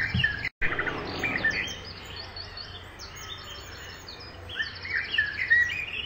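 A chorus of many small birds chirping and trilling, with overlapping calls throughout. The sound cuts out completely for a split second about half a second in.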